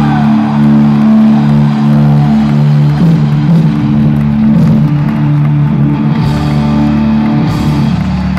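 Live rock band playing loud, with electric guitars and drums holding long sustained chords.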